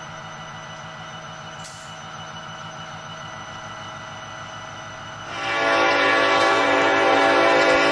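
A train running steadily, then its horn sounding a loud sustained chord of several notes, starting abruptly a little over five seconds in and held to the end.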